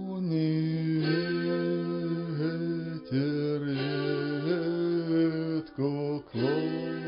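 A man singing a slow, drawn-out Russian folk melody in long held notes that slide from one pitch to the next, with plucked gusli accompanying.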